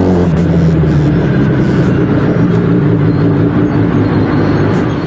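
Kawasaki ZX-10R inline-four engine running under way, its pitch rising just after the start and then wavering up and down with the throttle, over a haze of wind and road noise.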